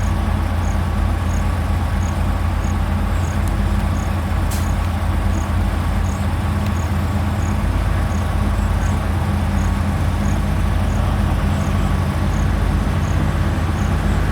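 A heavy diesel engine of earthmoving machinery running steadily at constant speed, a deep even drone with no revving. Faint high-pitched ticks repeat about one and a half times a second over it.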